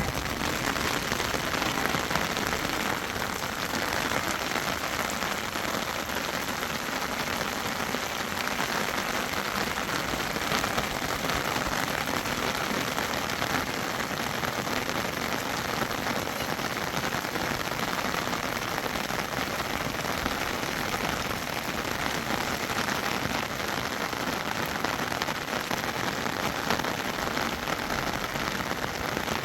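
Steady rain falling and pattering on surfaces, an even, unbroken hiss of drops.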